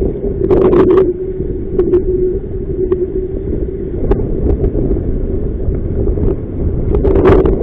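Strong wind buffeting the microphone on an inflatable boat under sail, a steady rumble with scattered sharp knocks and splashes that come thickest near the start and near the end.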